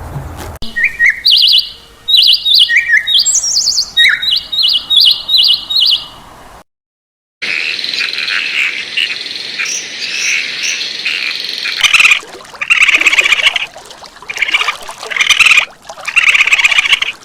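Birds calling: a run of short, repeated high chirps, then, after a brief break, a denser high chatter with louder bursts.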